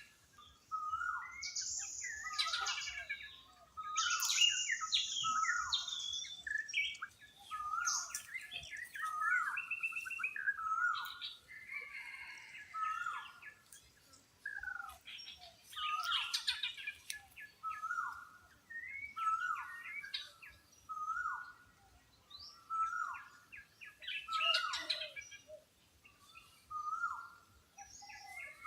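Birds calling: a steady run of short, down-slurred calls about once a second, with higher chirps and squeals mixed in.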